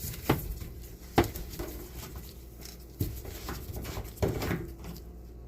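Several sharp knocks and clicks of a water-inlet hose and its threaded coupling being unscrewed and handled at the back of a washing machine.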